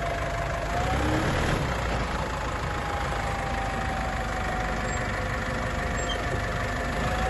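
Vehicle engine running steadily, with a faint thin whine that drifts slightly in pitch.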